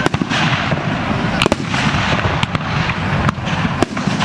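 Aerial fireworks shells bursting in quick succession: sharp bangs roughly every half second, over a continuous dense crackle and rumble.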